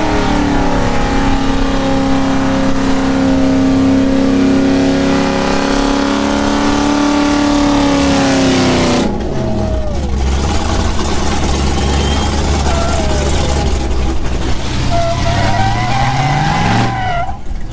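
Vehicle engine revved and held at high speed for several seconds, then falling off about nine seconds in. After that comes a lower engine rumble with short rises and falls in pitch.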